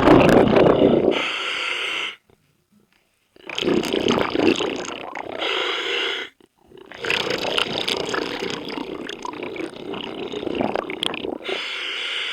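Scuba diver breathing through a regulator underwater: long stretches of rumbling exhaled bubbles, broken twice by short silent pauses between breaths.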